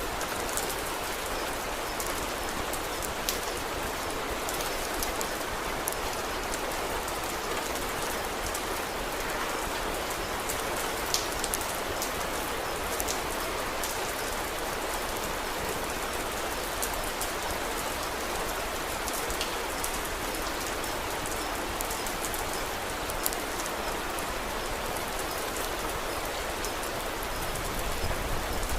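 Steady rain, falling evenly, with scattered small sharp ticks throughout.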